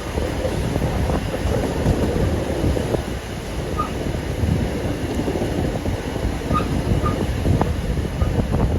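Steam-hauled passenger train running along the line: a steady, loud rumble of the carriages' wheels on the track, with a few faint short squeaks in the second half.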